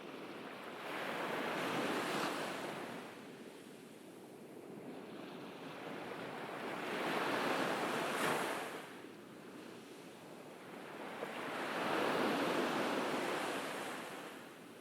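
Ocean waves washing onto a beach: three swells of surf, each building and fading over a few seconds, about five seconds apart.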